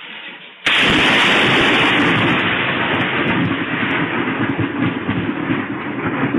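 A sudden, very loud thunderclap from a nearby lightning strike a little over half a second in, followed by several seconds of rumbling thunder.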